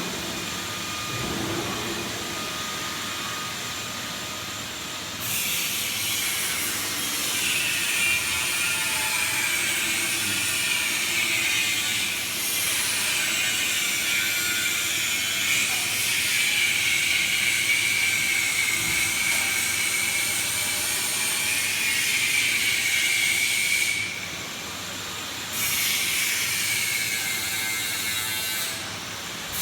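A PVC flexible duct forming machine running, with a steady hiss and a high whine that set in about five seconds in and cut out briefly twice near the end.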